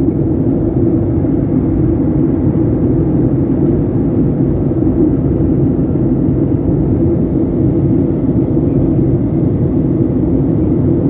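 Airliner cabin noise during descent: the engines and the air rushing past the fuselage make a steady, unchanging drone.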